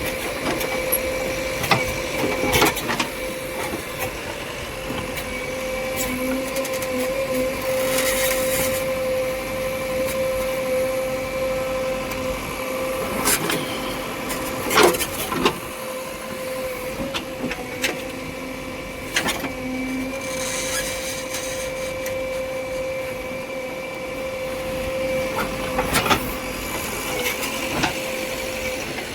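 Machinery running steadily with a constant whine, broken by many sharp knocks and clanks at irregular moments.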